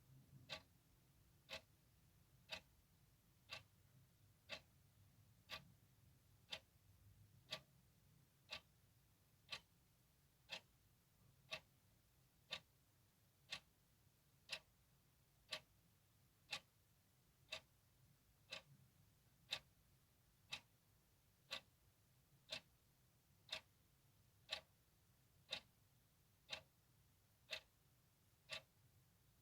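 Clock ticking steadily, one even tick a second.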